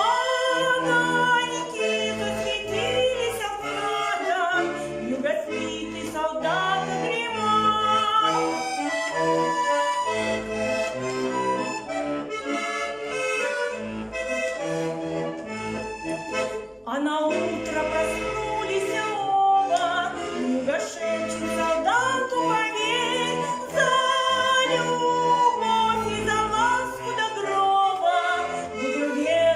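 Accordion playing an instrumental break in a song: a moving melody over an even bass-and-chord accompaniment, with a brief drop about seventeen seconds in.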